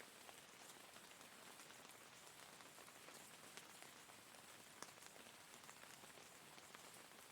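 Steady rain falling, a faint even hiss with scattered single drops ticking through it.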